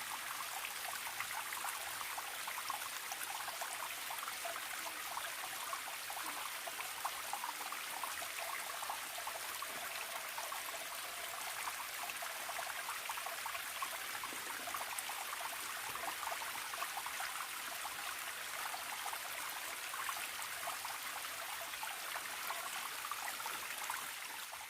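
Forest stream trickling and splashing at a steady level, fading out near the end.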